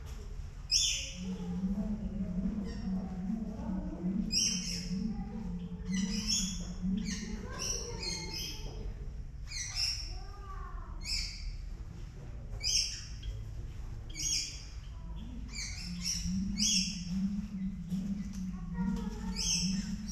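Birds chirping: short, high calls repeating about every second, over a low steady hum that fades out in the middle and returns near the end.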